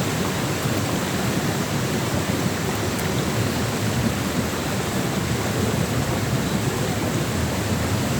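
Steady, loud rushing noise that holds even throughout, with no distinct events.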